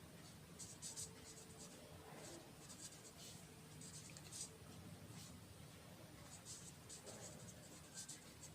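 Faint scratching of a pen writing, in many short strokes, over a low steady room hum.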